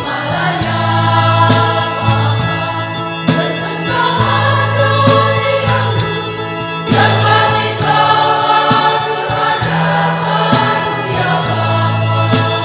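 Church choir singing a hymn in several voices, over a low, held bass accompaniment and sharp percussive hits.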